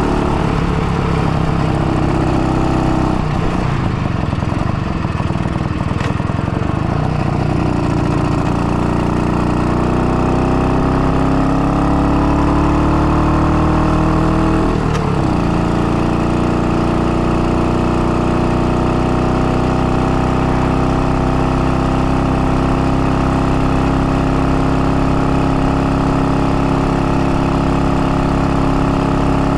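IZh-49 motorcycle's single-cylinder two-stroke engine running on the road. It revs up steadily for several seconds, drops suddenly about halfway as with a gear change, then holds a steady pitch. The engine is freshly rebuilt, with a 75 mm piston, and is being run in.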